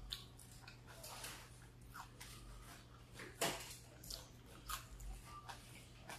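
Close-miked eating sounds: chewing with scattered wet mouth clicks and smacks. The sharpest click comes about three and a half seconds in.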